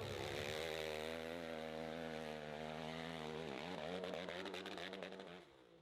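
Hill-climb motorcycle engine revving high and held on the throttle, its pitch wavering. About three and a half seconds in the pitch dips sharply and climbs again, then the sound cuts off suddenly near the end.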